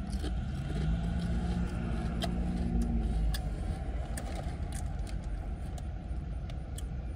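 A baked potato chip being chewed, with short crisp crunches scattered through, and a hummed 'mmm' lasting about two seconds from about a second in. Under it is the steady low rumble of the car the eater is sitting in.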